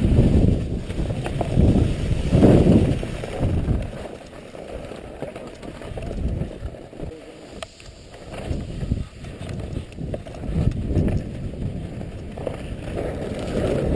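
Wind buffeting the microphone in uneven gusts. It is loudest about two and a half seconds in and again near the end, and eases off in the middle.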